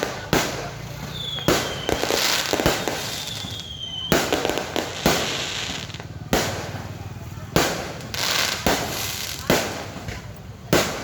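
Fireworks going off in quick succession: sharp bangs about once a second with crackling between them, and two short falling whistles in the first few seconds.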